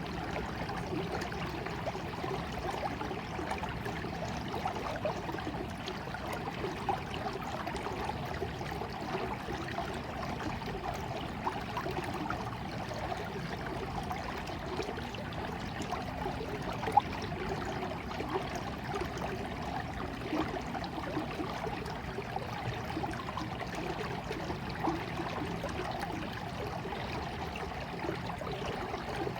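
Running water of a small stream, flowing and trickling steadily, with one brief sharp click about 17 seconds in.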